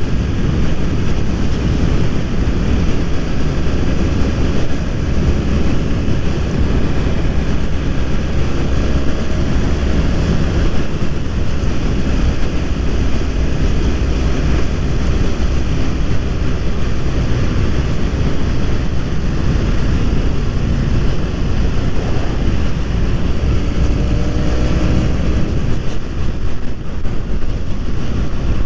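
BMW F 800 R's parallel-twin engine running on the move under heavy wind rush on the microphone, with the engine pitch rising a couple of times, about a third of the way in and again near the end.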